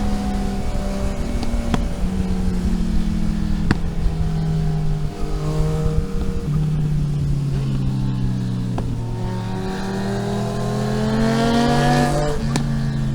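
Vehicle engine pulling along a road, its pitch dropping in steps over the first few seconds, then rising steadily under acceleration and falling suddenly near the end as a gear is changed.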